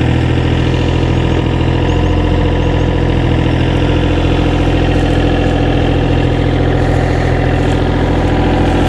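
Engine of a piece of construction machinery running steadily at an even speed, with no revving.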